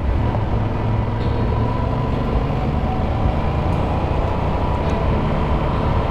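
Motorcycle engine running steadily while riding at a constant pace, with road and wind noise.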